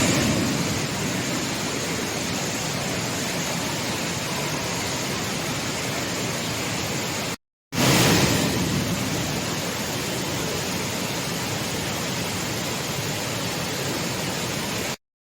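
Steady rushing of a waterfall in flood, heavy water pouring down. The sound cuts out for a moment about seven and a half seconds in and comes straight back.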